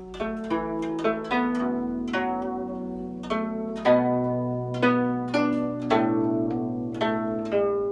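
Guzheng plucked with finger picks, playing a melodic passage of single notes, each note ringing on under the next. A low bass string sounds about four seconds in.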